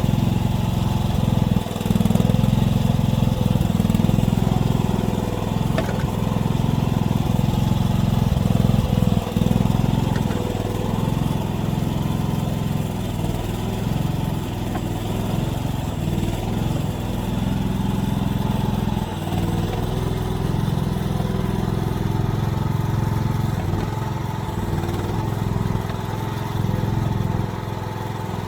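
Small engine of a mini excavator running steadily, its level rising and falling a little as it works, with a few faint knocks.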